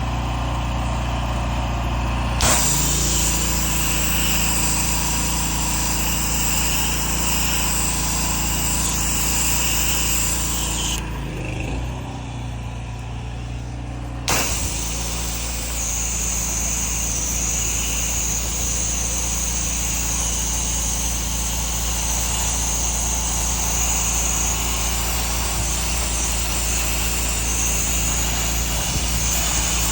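Gas-engine pressure washer running steadily, with the hiss of its spray whenever the trigger is held: the spray starts about two seconds in, stops for about three seconds near the middle, then starts again.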